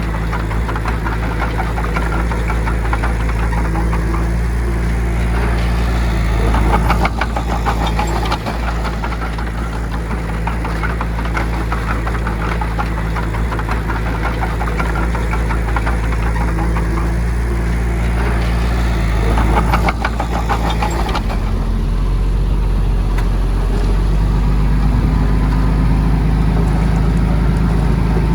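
Heavy diesel engine of earthmoving equipment running steadily with a low hum. Two spells of rapid clattering, and the engine note changes about three quarters of the way through.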